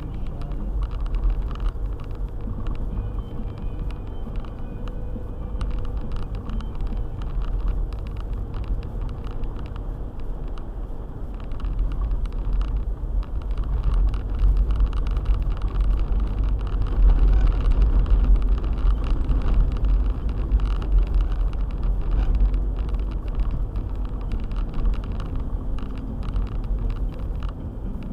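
Four-wheel-drive car driving on a snowy road: a steady low rumble of engine and tyres with a dense scatter of small ticks, growing louder about halfway through.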